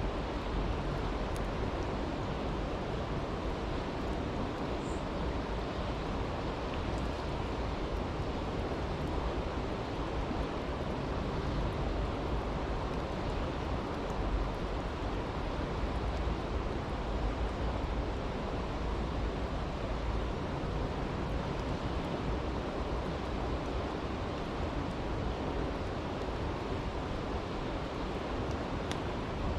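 A stream rushing steadily, with a few faint pops from a crackling campfire.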